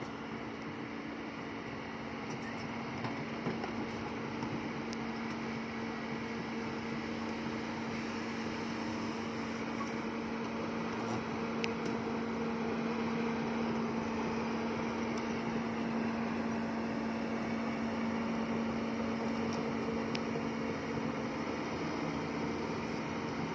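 Excavator's diesel engine running at a steady speed with a constant hum, swelling slightly partway through.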